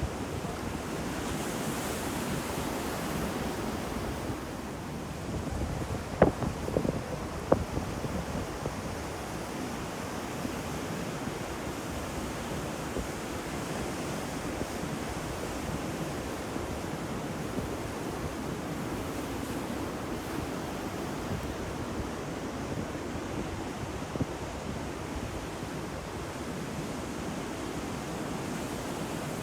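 Heavy ocean waves breaking on the shore in a steady surf wash, with wind on the microphone. A few sharp cracks stand out about six to seven and a half seconds in.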